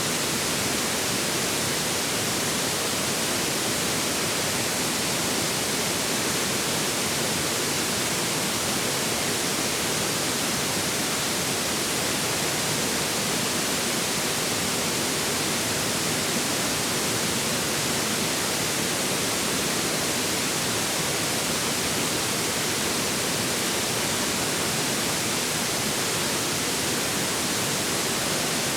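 A forest river flowing, a steady unbroken rushing hiss of water over rocks that stays at one level throughout.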